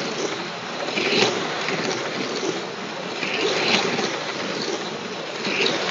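Slot cars' small electric motors whirring around the track, the sound swelling each time cars pass, about every one to two and a half seconds.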